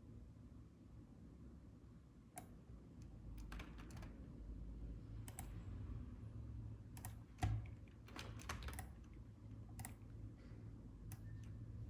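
Scattered clicks of a computer keyboard and mouse, some in quick clusters, over a low steady hum. There is one louder thump about seven and a half seconds in.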